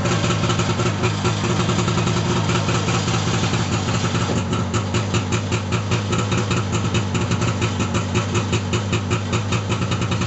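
1989 Arctic Cat Jag 340 snowmobile's fan-cooled two-stroke engine idling steadily with an even pulse, running smoothly after a cold start.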